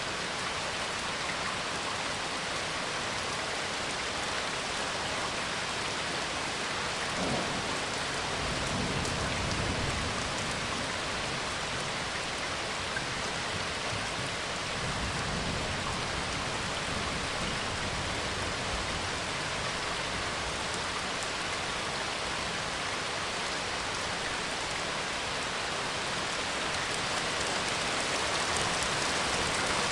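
Steady rain falling, an even hiss throughout. A low rumble swells twice in the first half.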